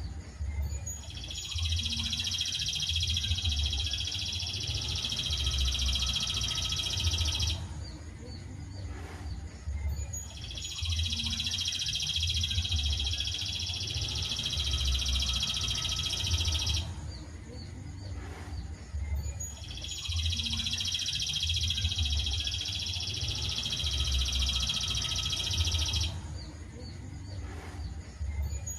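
Songbird song from a masteran (song-tutoring) track: a dense, high trilling phrase about six seconds long, repeated three times with pauses of about three seconds between. A low rumble and throbbing runs underneath.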